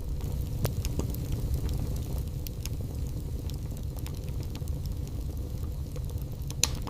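Wood fire burning in a fireplace: a steady low rumble with scattered sharp crackles and pops, the loudest about two-thirds of a second in and again near the end.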